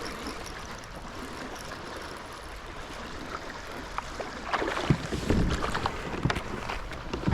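Water lapping at a kayak, then from a little past halfway a run of irregular splashes and knocks as a hooked white bass is brought to the kayak.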